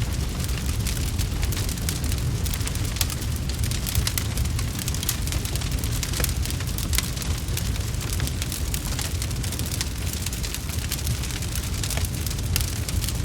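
Wood fire crackling in a fireplace: a dense scatter of small sharp pops over a steady low rumble.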